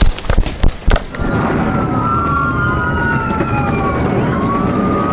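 A quick run of loud sharp knocks in the first second, then police sirens from more than one cruiser wailing over steady vehicle rumble.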